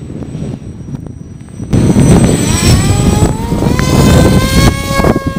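Small electric RC plane motor spinning a 6x4 propeller, whining and rising in pitch as it speeds up about two seconds in. Heavy wind buffets the microphone throughout.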